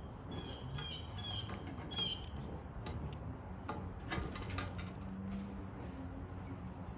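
Blue jays calling: a run of short repeated notes about twice a second for the first two seconds, then a few sharp clicks about three to four and a half seconds in, over a steady low hum.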